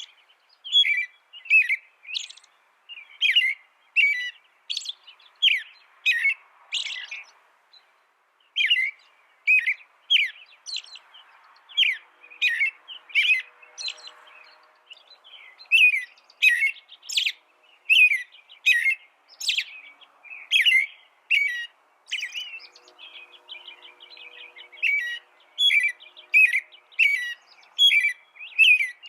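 A small songbird chirping over and over: short, sharp, high chirps, one or two a second, with brief pauses between runs.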